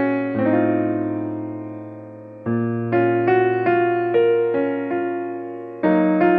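Slow keyboard music in an electric-piano sound: held chords over a low bass note, each fading away until the next chord is struck, with a new chord about two and a half seconds in and another near the end.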